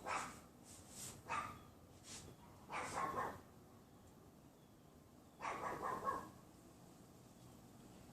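Pomeranian dogs yapping in short bursts: single yaps in the first three seconds, then a quick run of yaps about five and a half seconds in.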